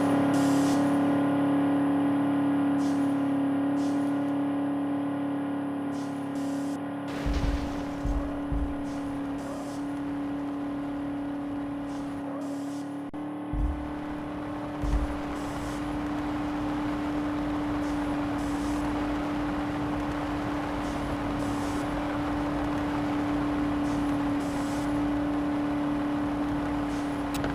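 A vehicle driving at a steady speed with a continuous droning hum, with a few dull low thumps about a quarter of the way and halfway through.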